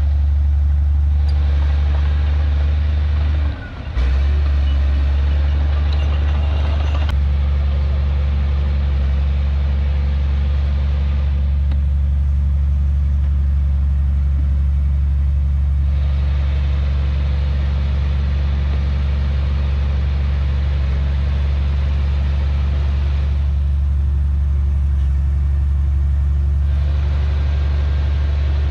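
Heavy diesel engine of earthmoving machinery running steadily, a deep, even drone that briefly dips about four seconds in.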